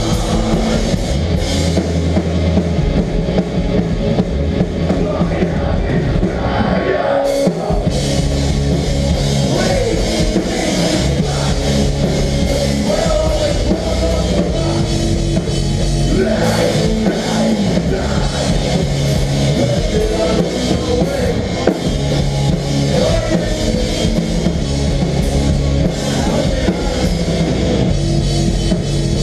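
Melodic hardcore band playing live: distorted electric guitars and bass over a pounding drum kit, loud and dense.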